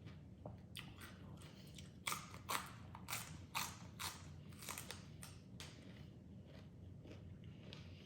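Close-up chewing of a mouthful of spicy salmon salad: crisp crunches of raw vegetables, clustered in the middle, with softer chewing before and after.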